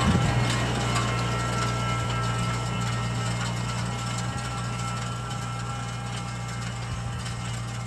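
Tractor engine running at a steady speed with a low, even hum, gradually getting quieter.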